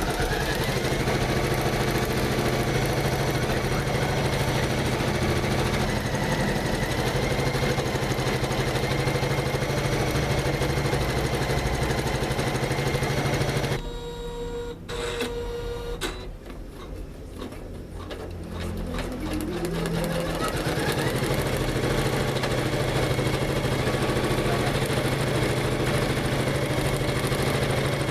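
Janome MC500E computerized embroidery machine stitching at speed with a fast, even needle rhythm. It stops suddenly about halfway through, then a few seconds later starts again, its pitch rising as it winds back up to full speed.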